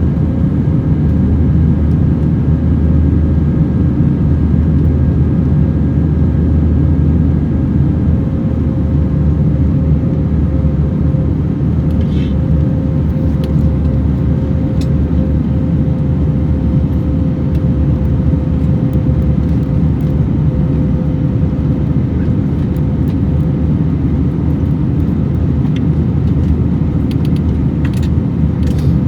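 Steady cabin noise inside an Airbus A321-200: a low rumble of the engines and airflow with a steady hum that sinks slightly in pitch.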